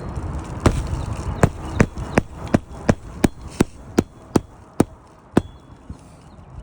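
A hammer driving a roofing nail into a lifted asphalt shingle: about a dozen sharp strikes at roughly three a second, then they stop.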